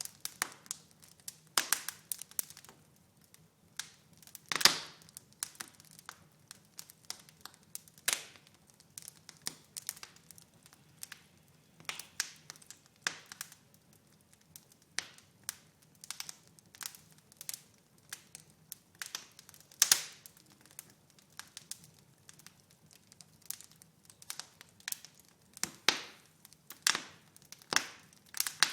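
Wood fire burning in a fireplace, crackling with irregular sharp pops and a few louder snaps, over a faint steady hum.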